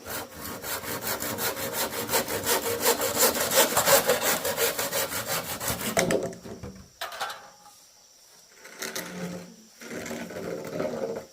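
Handsaw sawing through bamboo in rapid back-and-forth strokes for about six seconds, then a few slower, separate strokes.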